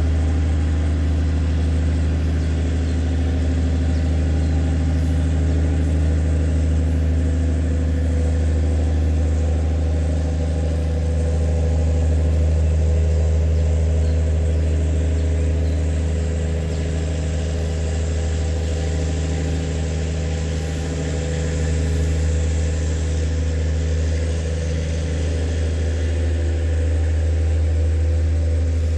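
River tugboat's engine running steadily under load as it tows a cargo barge, a deep constant hum.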